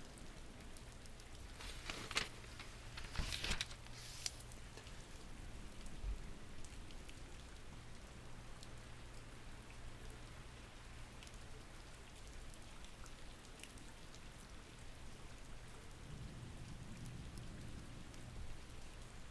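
Steady rain falling, with a few brief crisp rustles about two and three and a half seconds in and a soft low rumble near the end.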